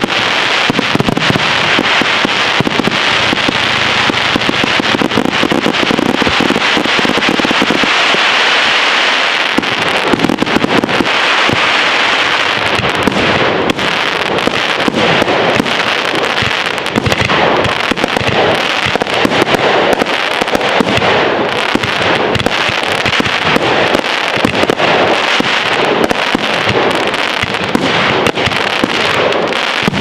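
A loud, continuous fireworks display: rapid overlapping bangs from bursting shells over dense crackling.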